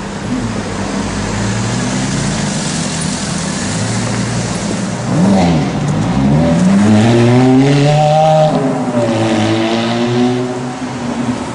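Ferrari F430's V8 engine running at low revs, then revving up and down from about five seconds in as the car pulls away and accelerates, loudest a few seconds later.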